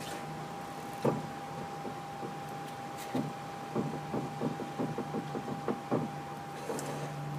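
A 2003 Nissan 350Z making the noise it makes when turning left: a sharp click, then a run of quick clicks or knocks, about three or four a second, over a steady hum. The owner does not know what causes it.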